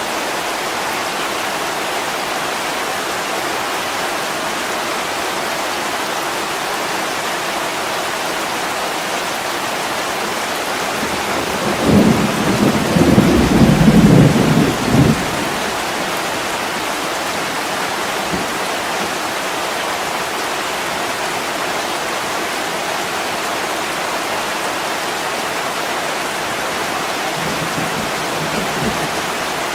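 Steady heavy rain, with a loud roll of thunder about twelve seconds in that lasts some three seconds, and a faint low rumble near the end.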